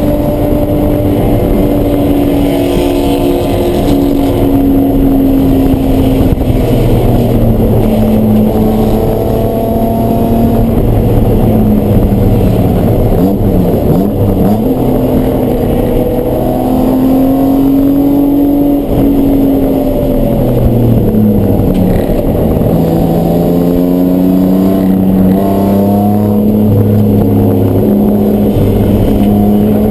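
A race car engine running hard on track, its pitch repeatedly falling and climbing as the driver lifts, brakes and accelerates again, with a sharp dip and recovery about halfway through.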